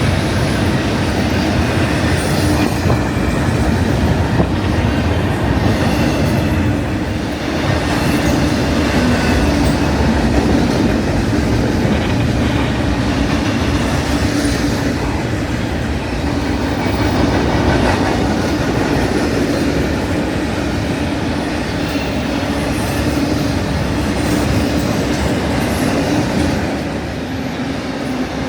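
BNSF intermodal freight train rolling past close by: a steady loud rumble with the cars' wheels clattering over the rails.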